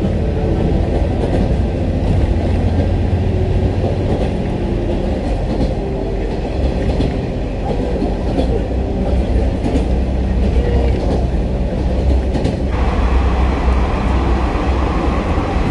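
Futatsuboshi 4047 diesel railcar (converted KiHa 40/47) running at speed, heard from inside the carriage: a steady low drone and rumble from the engine and wheels on the rails. About 13 seconds in, a louder hiss joins it.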